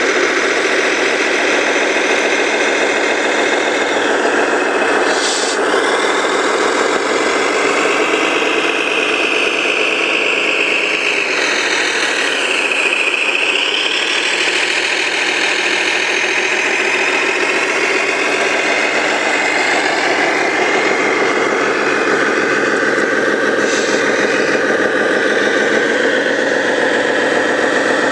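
Radio-controlled model trucks and construction machines running: a steady mechanical whine and hum of motors and gearing, with a brief dip and rise in pitch about twelve seconds in.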